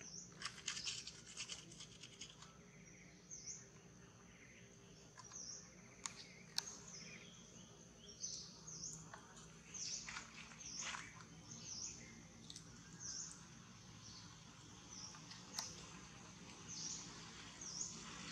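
A small bird calling over and over, short high chirps that dip and rise in pitch, about one a second, with scattered soft clicks and rustles.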